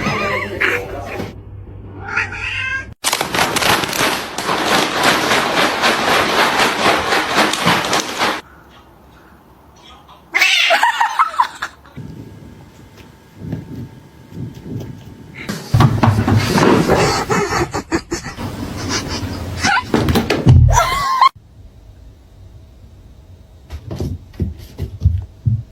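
Cats meowing and yowling across a string of short clips, with a long noisy stretch and several abrupt cuts between them.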